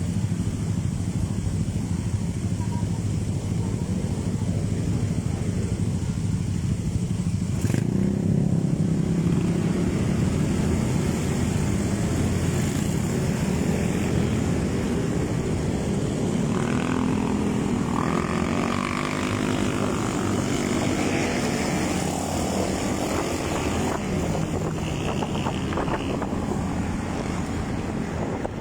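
Motorcycle engine running steadily while riding. About eight seconds in there is a sharp click, after which the engine runs louder.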